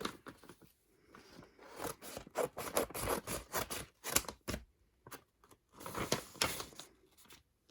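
Plastic photocard packaging being handled and opened: irregular crinkling, scraping and clicking in bursts, busiest in the middle and again near the end.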